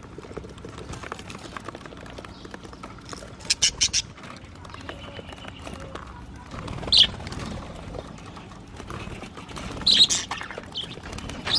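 Budgerigars chirping and squawking in short sharp bursts, three clusters a few seconds apart over a steady low background.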